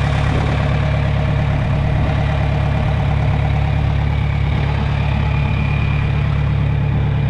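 John Deere 3010 propane tractor's four-cylinder engine idling steadily, still running on its start-up fuel before being switched over to vapor.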